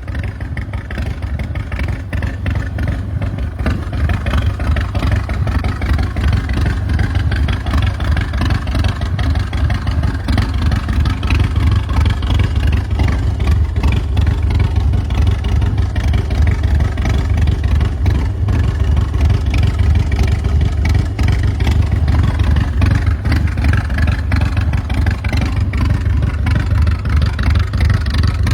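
Harley-Davidson Panhead V-twin engine of a chopper running steadily, with a loud, fast exhaust pulse.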